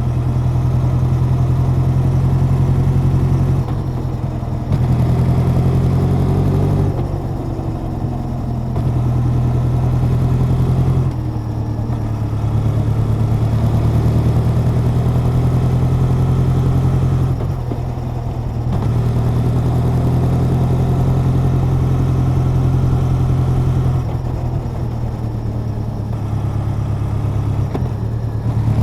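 Honda CB1100's air-cooled inline-four exhaust while the bike is ridden, the engine note holding steady for long stretches and dropping away briefly about five times, with one rising pull through the revs early on.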